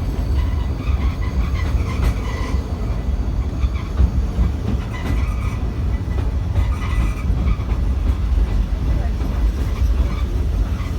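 Great Orme cable-hauled tramcar running on its rails, a steady low rumble with some faint rattle on top.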